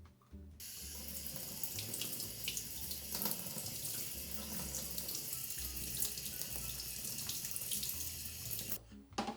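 Water from a tap running into a sink: a steady gush that starts about half a second in and is shut off abruptly near the end.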